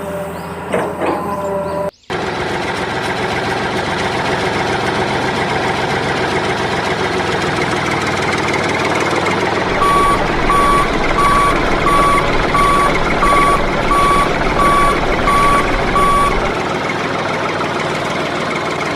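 Heavy machinery engine running, with a reversing alarm beeping about ten times at a steady pace, roughly one and a half beeps a second, in the middle. A short different sound with held tones comes before a cut about two seconds in.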